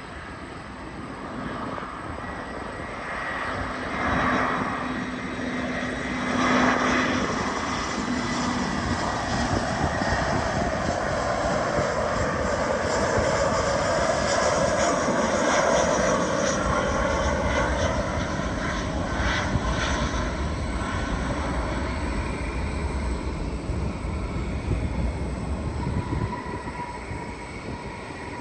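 Jet airliner engines passing on the landing approach: a broad roar that builds over the first several seconds, stays loud through the middle and eases off near the end.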